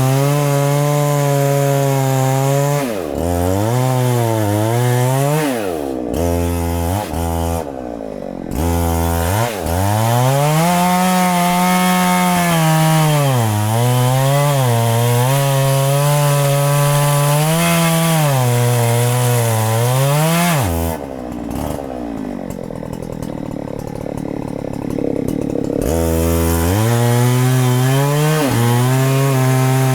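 Two-stroke chainsaw cutting a very large tree trunk at high revs. Its pitch sags and recovers again and again as the chain bogs down in the wood. For about five seconds past the middle it falls to a low, rough running, then revs back up near the end.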